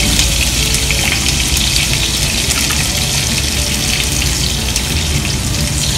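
Salmon pieces sizzling steadily in hot oil in a frying pan, with a few light clicks of metal tongs against the pan as the pieces are lifted out.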